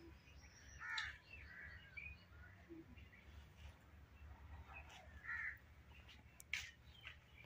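Faint bird calls: a few short calls about a second in and one more past the middle, over a low steady hum, with a single click near the end.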